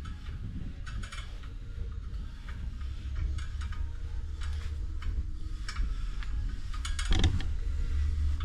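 Hand-turned 22 x 1.5 mm tap cutting a new thread into an aluminium cylinder head: irregular small clicks and creaks as the tap is worked round. A low steady hum underneath grows louder in the second half.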